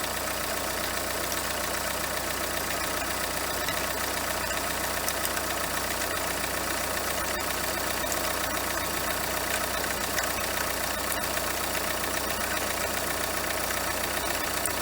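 Renault Kangoo 2's 1.5 dCi diesel engine idling steadily, with a few faint ticks under the engine sound. It is the metallic noise the owner likens to a dry bearing with grit in it, jerking as it turns, which he traces with a stethoscope to the alternator and its pulley.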